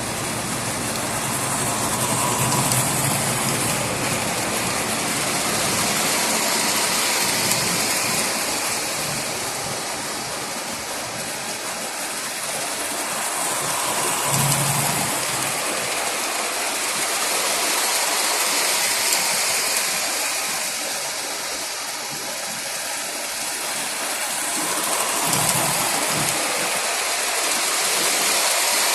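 Lionel model train running on its track, a steady rumbling rattle of wheels and motor that swells and fades in a slow cycle, with a low surge about every 11 to 12 seconds as it comes round the loop.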